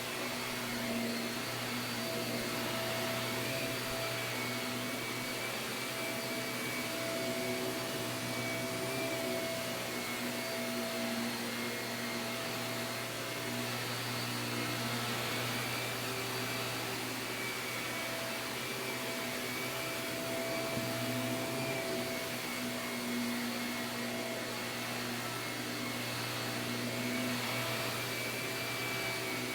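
Shark vacuum cleaner running steadily, its motor humming with a slight waver in pitch as it is pushed over carpet.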